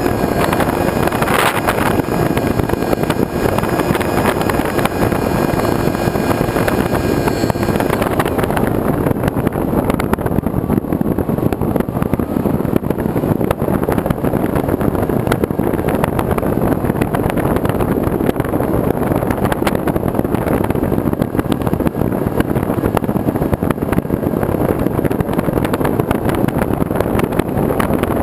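Loud, steady rushing noise of a moving vehicle, with wind buffeting the microphone; a faint steady whine drops away about eight seconds in.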